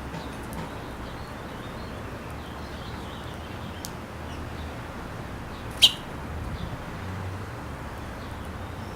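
Small birds chirping at a seed feeder: scattered faint short chirps over a steady background hiss, with one loud, sharp chirp about six seconds in.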